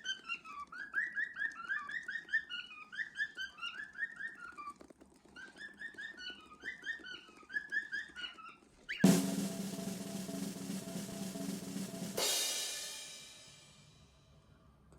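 Cockatiels chirping in quick, repeated short calls, each falling in pitch. About nine seconds in, a loud drum roll starts and ends about three seconds later in a cymbal crash that fades away.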